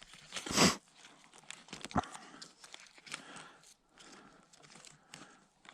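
Butter wrapper crinkling and cold butter being bitten and chewed: a louder rustle about half a second in, then a sharp click and a string of small crackles and clicks.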